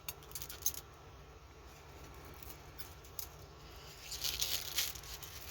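Plastic packaging being handled and opened by hand: faint crinkling with a few sharp clicks near the start and a burst of crackling about four seconds in.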